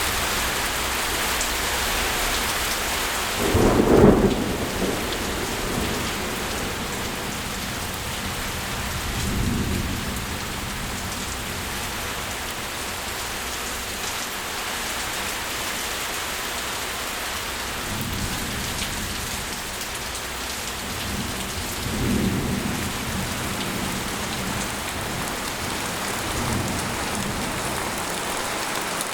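Steady rain pattering on a tent. A loud thunderclap comes about four seconds in, followed by several fainter rolls of thunder.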